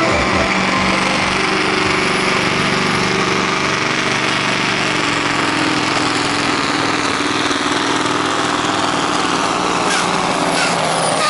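Scania pulling truck's diesel engine running flat out while it hauls the weight sled in a truck-pulling run. Its pitch drops a little about halfway through as it works against the load, and a few sharp clicks come near the end.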